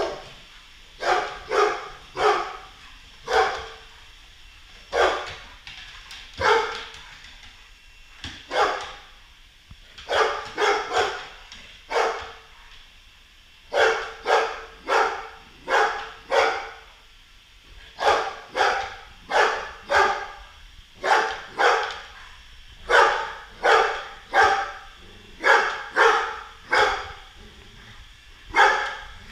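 Golden retriever barking over and over at a robot vacuum, dozens of sharp barks in quick runs of two to four with short pauses between runs.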